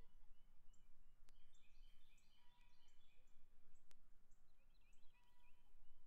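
Faint outdoor ambience with small birds chirping in short high notes, and two sharp clicks.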